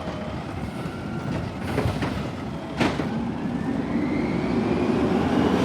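Garbage truck engine running and revving up, its pitch and loudness rising steadily over the last couple of seconds, with a faint rising whine on top. A single sharp clank comes just before the revving starts.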